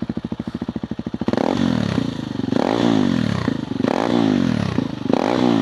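KTM 390 Adventure R's single-cylinder engine through a Norifumi Whoops slip-on exhaust with the dB killer fitted, idling and then revved four times, each blip rising and falling.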